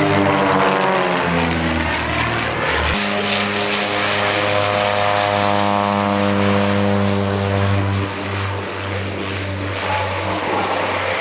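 Light propeller plane's piston engine: first passing by with its pitch dropping, then, after an abrupt cut about three seconds in, running at a steady pitch.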